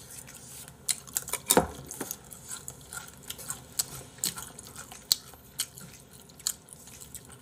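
Close-miked chewing of food: a run of irregular sharp mouth clicks and smacks, the loudest about a second and a half in.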